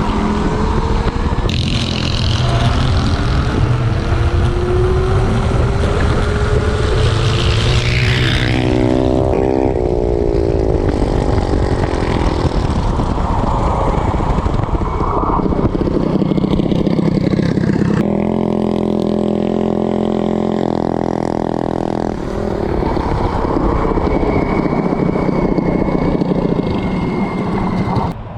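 Small single-cylinder gas minibike engine running hard, its pitch rising several times as it revs up through acceleration runs, with wind noise.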